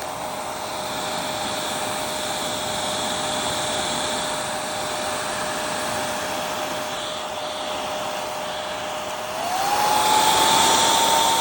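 Hair dryer running with a steady whine, switched up to a higher setting about nine seconds in, where the whine rises in pitch and gets louder.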